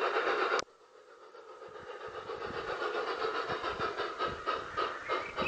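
G-scale LGB model locomotive's onboard sound unit playing steam chuffs. The sound cuts off abruptly about half a second in, then the rhythmic chuffing returns faint and grows steadily louder as the loco approaches.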